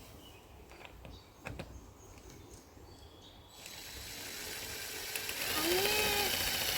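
Power drill driving a self-threading screw through poultry netting into PVC pipe. After a few quiet clicks it whirs up with a building hiss, and about two-thirds of the way in its motor whine rises, holds and then falls away as the trigger is let go.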